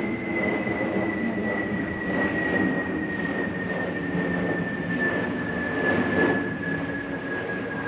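Large passenger jet passing overhead: a steady engine rumble with a high whine that slowly falls in pitch.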